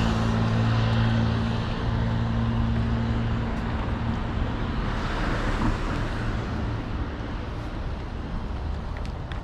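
Street traffic: a large vehicle's engine hums steadily close by and fades away after about three seconds, then a car passes about halfway through.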